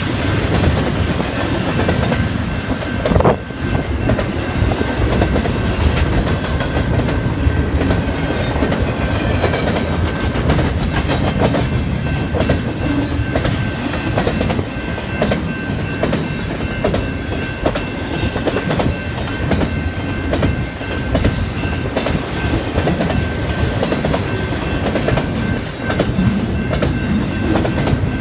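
Freight train cars rolling past, their wheels clicking over rail joints in an uneven clickety-clack over a steady rumble, with a thin steady high ring.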